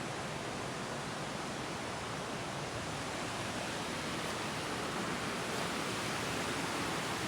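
Waterfall water rushing steadily, an even, unbroken noise of falling and cascading water.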